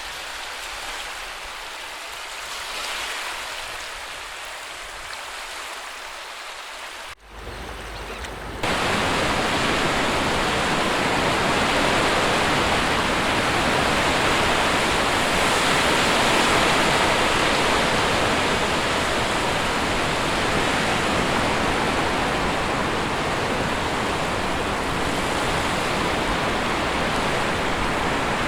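Sea waves washing on a shore, a continuous rush of water. About seven seconds in the sound cuts abruptly and comes back as a louder, fuller and steadier rush of surf.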